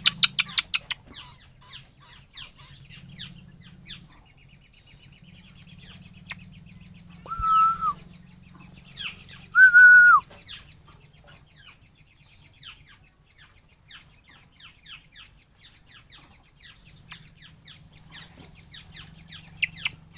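Birds calling: many quick, short chirps, with two loud, longer calls about seven and ten seconds in.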